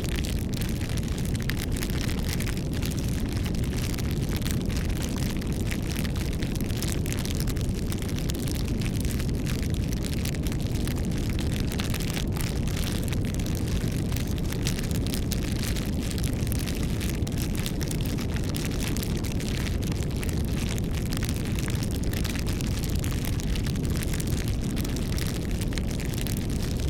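Campfire burning: a steady low rumble of flames with many small crackles and pops from the burning wood.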